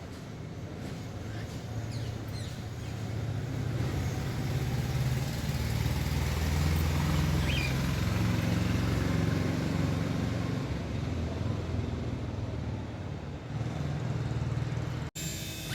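Engine noise from a passing motor swells to a peak and fades away, with a few faint short bird chirps over it.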